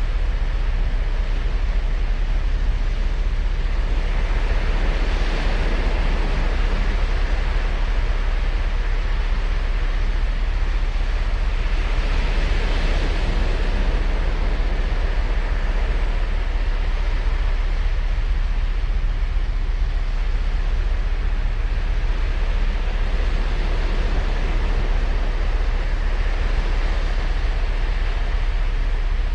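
Ocean waves breaking and washing up a sandy beach, the surf hiss swelling three times over a steady low rumble.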